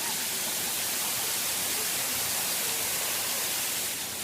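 Steady rushing hiss of a waterfall.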